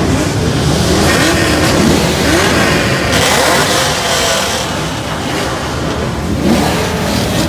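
Many Chevrolet Camaro engines revving at once, overlapping exhausts rising and falling in pitch in a continuous loud din.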